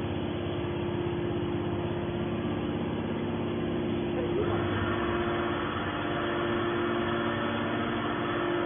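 Y81 hydraulic scrap-metal baler's hydraulic pump and motor running with a steady hum. About four and a half seconds in the sound turns brighter and a little louder, as the press takes up load.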